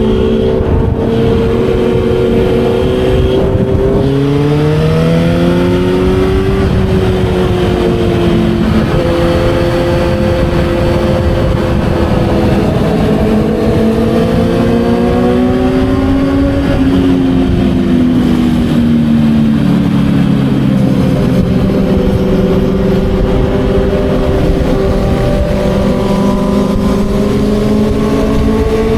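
Kawasaki Z900's inline-four engine running at expressway speed under a steady rush of wind noise. Its pitch climbs as it accelerates about five seconds in, rises and eases off in the middle, and climbs again near the end.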